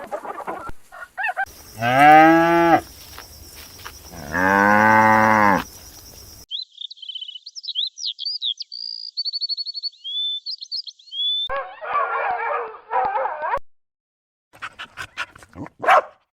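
A cow mooing twice, each call about a second long. It is followed by several seconds of high chirping and whistling, then a stretch of rougher noise and a few clicks near the end.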